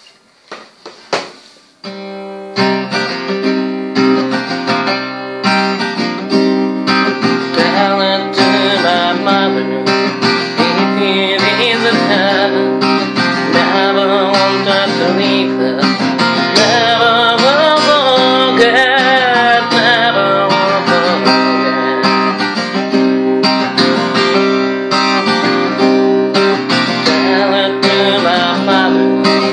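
Acoustic guitar music: a few soft notes, then from about two seconds in, a steady run of strummed and plucked chords.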